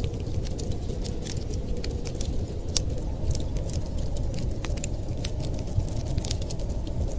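Wood fire crackling, with many small sharp pops and snaps at irregular moments over a steady low rumble.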